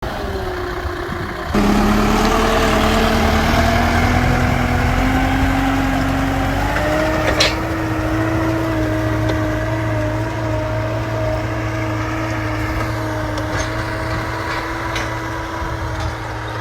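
Solis 110 HP tractor's diesel engine running, getting louder about a second and a half in, its pitch climbing slowly over the next few seconds and then holding steady. A single sharp click about seven seconds in.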